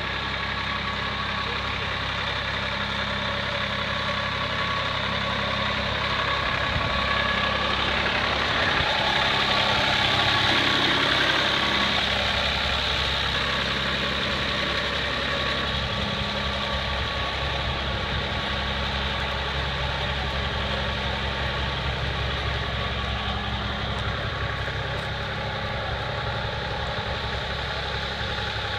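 Farm tractor engine running steadily at a low, even speed, growing a little louder for a few seconds about ten seconds in before easing back.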